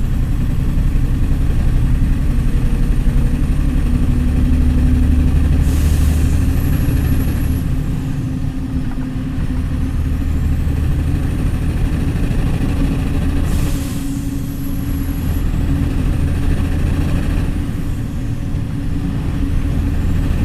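Large diesel engine, likely a concrete pump truck's, running steadily with a deep drone. A short hiss with a high whistle comes about every seven to eight seconds, three times.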